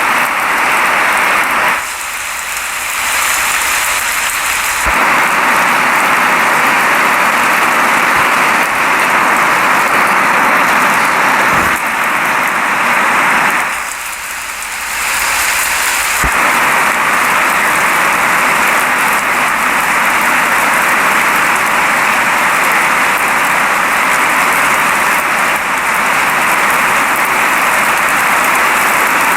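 Steady rain falling, a dense even hiss that grows quieter twice for a few seconds, about two and fourteen seconds in.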